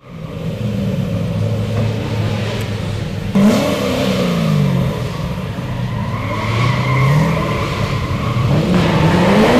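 BMW E30 drift car's engine running at low speed, blipped so the revs jump and fall back about a third of the way in, rising and falling again a little later, then climbing steadily near the end as the car pulls away.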